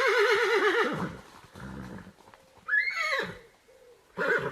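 A horse whinnying: a long quavering whinny that falls away about a second in, then a shorter neigh falling in pitch about three seconds in, and a brief call near the end.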